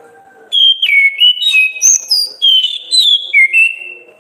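Orange-headed thrush (anis kembang) singing one loud phrase of clear whistled notes that step and slide up and down in pitch. It starts about half a second in and fades near the end.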